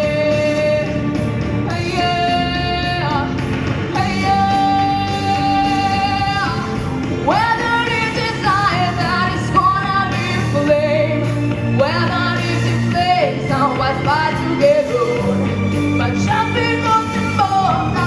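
Female solo voice singing a Russian folk-style song over an instrumental backing track, with long held notes and scooping slides up into phrases.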